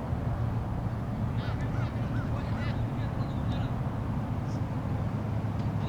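Steady low outdoor rumble, with a bird calling four quick times in a row about a second and a half in.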